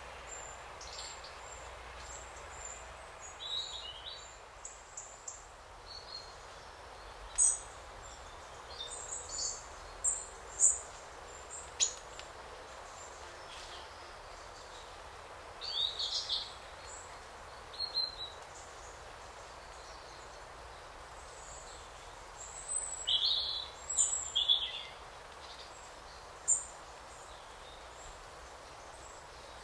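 Forest ambience: a steady soft hiss of wind through trees, with several birds giving short high chirps and calls at irregular intervals.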